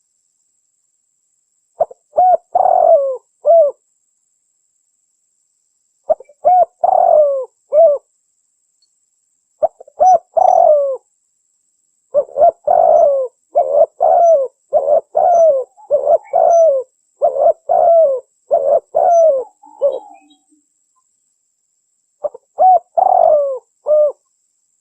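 Spotted dove (tekukur) cooing: phrases of several quick coos, repeated with pauses, with a run of about eight phrases back to back in the middle. It is a recorded call used as a lure for the birds.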